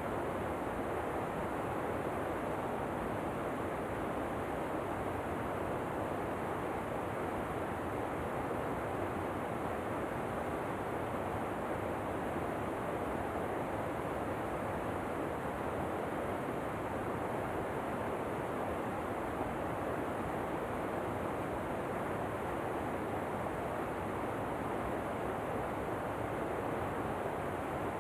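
Steady rushing of a waterfall, an even, unbroken water noise that does not change.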